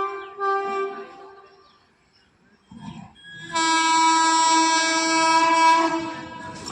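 Train horn sounding: a blast that stops about a second in, then after a short lull a long, loud blast lasting about two and a half seconds.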